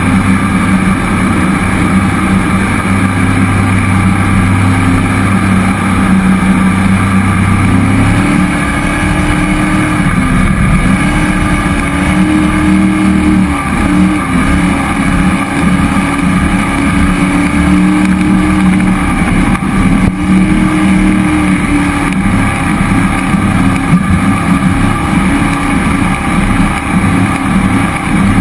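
Cammed 5.3-litre LS V8 in a 1976 Thompson Sidewinder jet boat, running under way. It holds a steady note at first, then about eight seconds in it revs higher, and for a while the pitch rises and falls before settling.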